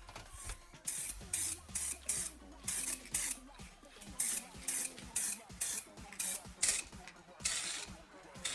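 Hand sanding or filing strokes: a quick run of short, hissing scrapes, about two a second, with brief pauses between them.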